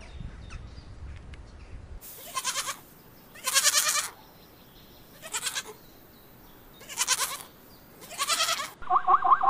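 Young goat bleating: five wavering calls a second or two apart. Near the end a different, fast, evenly repeated call starts.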